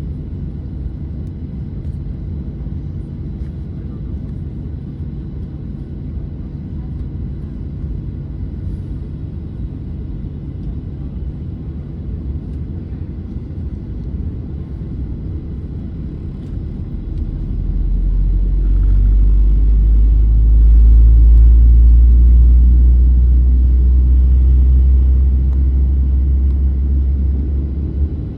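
Steady low hum and rumble of a Boeing 737-900 on the ground, with a few faint steady tones over it. About two-thirds of the way through, a much louder deep rumble swells up, holds for several seconds and eases off near the end.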